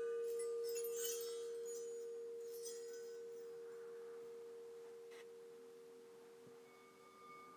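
Alchemy crystal singing bowl ringing with one pure tone that slowly fades, over a second, lower bowl tone held steady. Faint high chime tinkles sound about a second in and again near three seconds, and higher ringing tones come in near the end.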